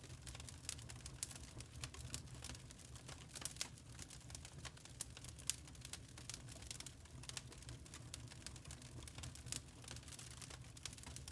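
Burning charcoal crackling: irregular small sharp pops and ticks, several a second, with an occasional louder snap, over a faint low hum.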